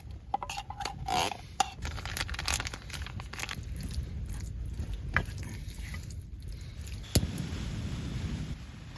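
Food being stirred in a metal camping pot: a spoon scraping and clinking against the pot, with a sharp knock about seven seconds in, over a steady hiss.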